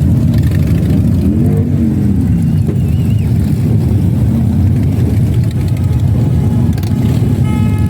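Motorcycle engines rumbling, with one engine revving up and back down about a second and a half in.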